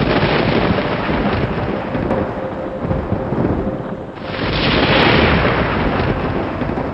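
Thunderstorm: thunder rumbling over steady rain, with a new roll of thunder building about four seconds in, peaking and slowly dying away.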